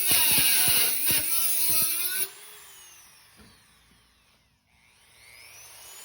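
A small high-speed power cutting tool cutting sheet metal, its whine shifting under load. About two seconds in it is switched off and winds down almost to a stop. It then spins back up, its pitch climbing near the end.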